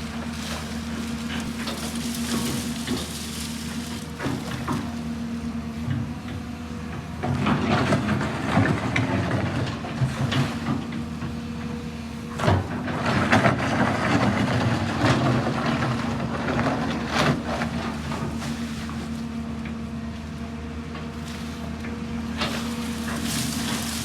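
Excavator engine running steadily. From about seven to seventeen seconds in there are louder bursts of scraping and clattering, as of the machine working material.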